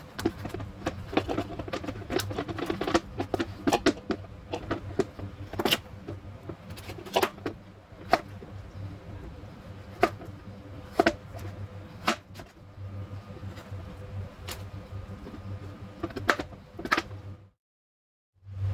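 Irregular clicks and knocks of small objects being handled, over a steady low hum, cutting off abruptly near the end.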